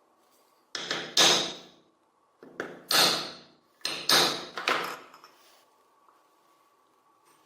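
Three bursts of knocking and scraping, each about a second long, as parts are worked on by hand in a workshop.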